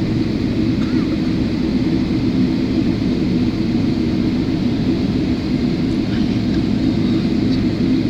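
Steady low rumble inside the cabin of a Boeing 777 taxiing after landing, from its jet engines and the air conditioning.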